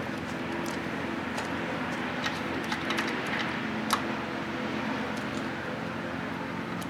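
Scattered light clicks and taps over a steady low hum, loudest click a little past the middle.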